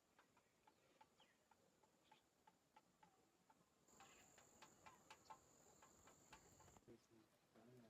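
Near silence: faint scattered ticking, three or four a second, with a faint high steady insect trill from about halfway in to near the end.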